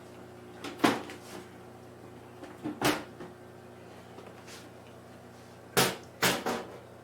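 Knocks and clunks of an empty computer case being handled on a workbench, a handful of sharp knocks at irregular spacing, the loudest about a second in and near six seconds.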